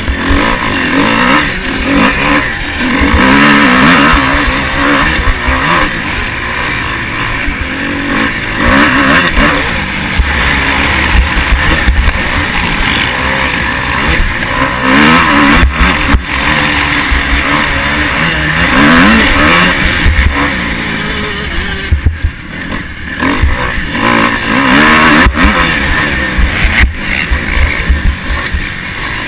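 Motocross bike engine heard close from an onboard camera, revving up and falling off again and again as the rider works the throttle around the track, with a few brief sharp dips.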